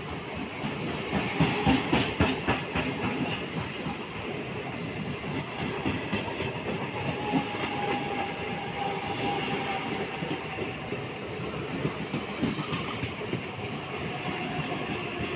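Mumbai Western Railway suburban EMU local train running past, its wheels clattering over the rail joints, loudest in the first few seconds. Under it runs a steady rolling noise with a faint thin whine.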